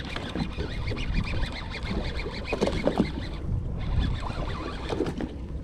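Birds calling: many short, rapid calls in quick succession, over a steady low rumble.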